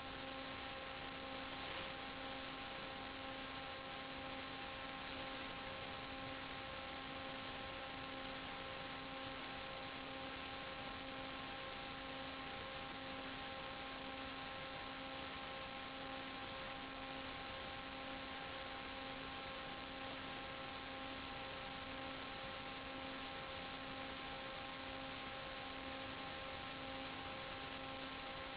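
Steady electrical hum and hiss: several constant tones over an even hiss, the lowest of them pulsing about one and a half times a second.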